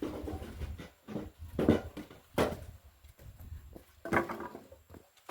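A few separate knocks and clatters of wood, from firewood and branches being handled on a bonfire stack, with rustling between them.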